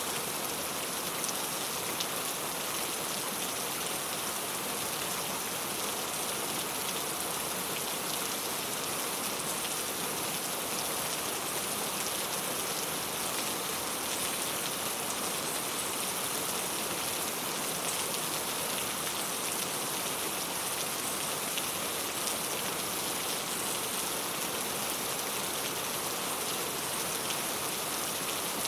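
Steady rain falling on a clay tile roof: an even hiss with single drops tapping through it.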